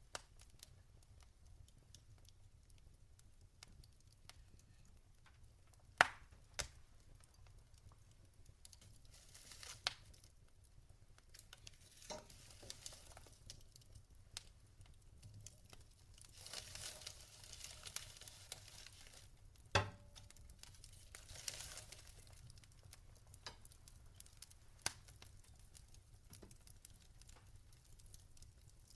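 Logs burning in a fireplace: scattered sharp crackles and pops, the loudest about six seconds in and again near twenty seconds, with a few short stretches of soft hissing.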